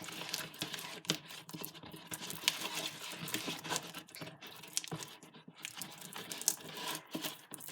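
Glue-and-borax slime being stirred in a bowl with a utensil, making irregular sticky, wet clicks and squelches as the partly activated mixture clumps and pulls away.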